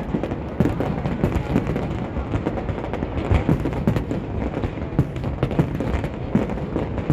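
Fireworks display going off: a dense, irregular run of booms and crackling bursts overlapping with no break.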